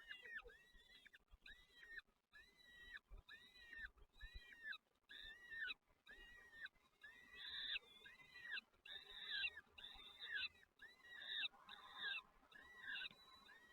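Nestling birds begging in the nest: faint, rapid, repeated cheeping calls, about two or three a second, growing louder in the second half and stopping near the end.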